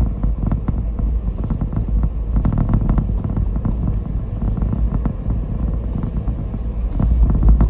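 A moving car's road noise: a steady low rumble from the tyres and engine, with many small knocks and rattles from the road surface.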